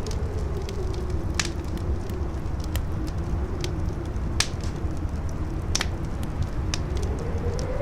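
Campfire crackling with sharp pops every second or so, over a steady howling wind whose pitch wavers and rises near the end.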